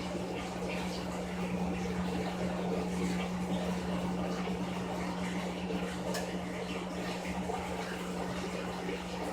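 Frigidaire Gallery Series top-loading washing machine running: a steady motor hum with water swishing in the tub.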